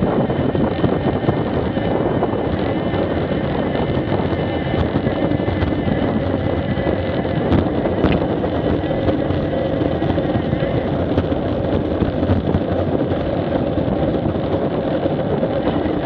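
Steady wind noise on an action camera's microphone during a street-motorcycle ride, with a steady engine note under it.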